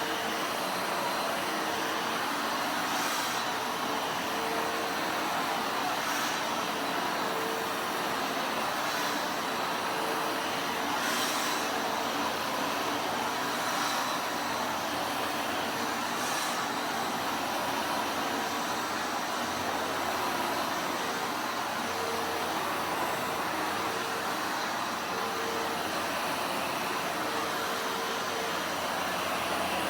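Vacuum cleaner running steadily, a continuous rushing noise with a steady hum.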